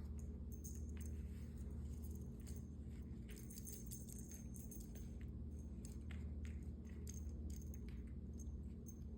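Faint scattered taps, clicks and light rustling of a cat wand toy being swatted and played with by kittens, over a steady low hum.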